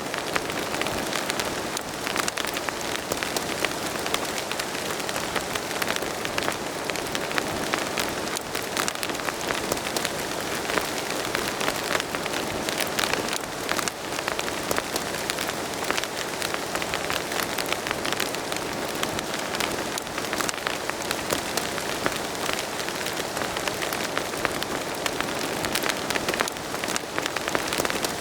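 Steady rain pattering down, many small separate drop hits over a continuous hiss.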